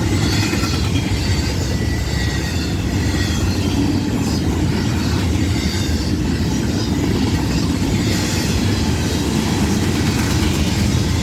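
Freight cars of a long train rolling past on the rails, a steady loud rumble of steel wheels with faint high wheel squeal over it.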